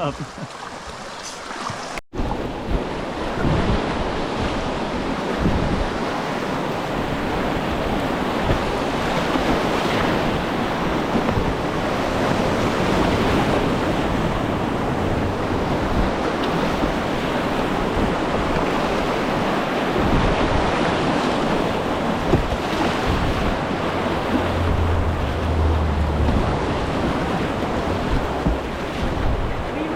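Whitewater rapids rushing steadily, with wind buffeting the microphone now and then.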